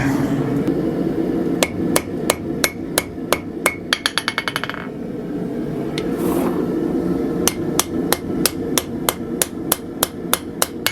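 Blacksmith's hammer striking steel on an anvil, about three blows a second, forging the guard. There are two runs of blows, the first ending in quicker, lighter taps, with a pause of a few seconds between them.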